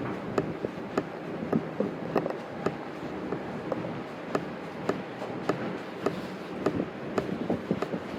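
Footsteps on snow, about two steps a second at a steady walking pace, over a steady background noise.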